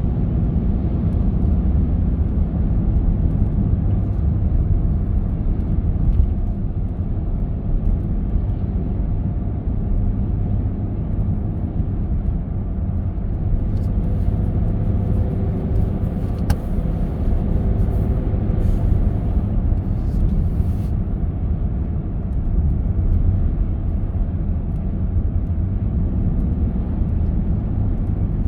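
Car driving along a road: a steady low rumble of engine and road noise with no marked changes.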